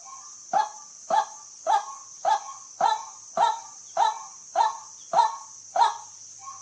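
White-breasted waterhen calling. It repeats a short, hoarse 'kwak' note at an even pace of nearly two a second, over a steady high-pitched hiss.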